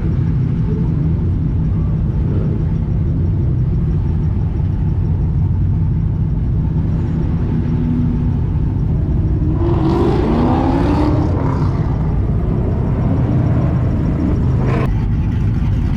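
Car engine running with a steady low rumble; about ten seconds in, a rising and falling engine note comes up over it, like a brief rev.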